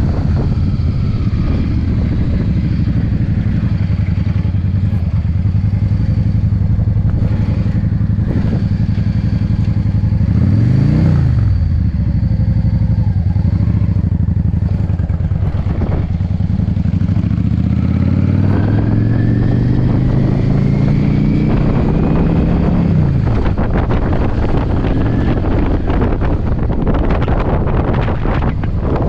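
Yamaha V-Star V-twin motorcycle engine running under way, its pitch rising and falling briefly midway, then climbing for several seconds under acceleration before dropping at a gear change. Gusty wind buffets the microphone throughout.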